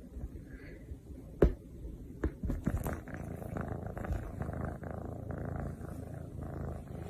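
A cat purring steadily, close to the microphone, with a few sharp clicks over it, the loudest about a second and a half in.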